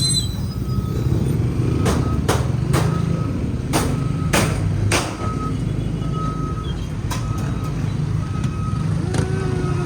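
Street traffic with a heavy vehicle's engine rumbling and a reversing alarm beeping, one short beep about every two-thirds of a second. Several short, sharp noises come in the first half.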